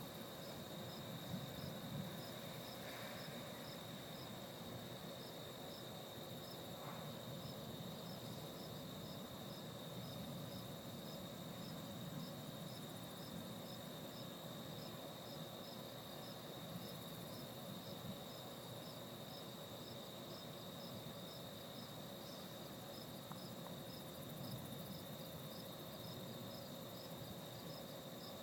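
Insects chirping: a faint, steady high trill with a second, regular chirp repeating about twice a second above it.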